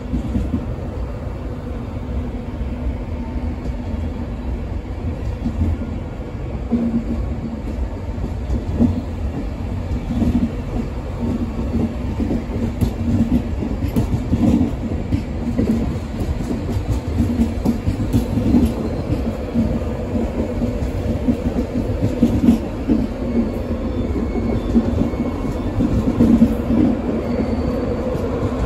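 LNER InterCity 225 train of Mark 4 coaches rolling past along the platform: a continuous low rumble of wheels on rail with a steady hum and scattered light clicks of wheels over rail joints.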